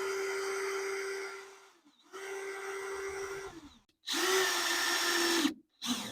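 Screw gun driving a screw to fasten a 2x6 to the steel conex. It runs in three steady bursts, each winding down as the trigger is let off, and the last burst is the loudest.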